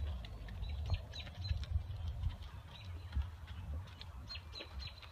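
Small birds chirping in many short, high notes, over a steady low rumble.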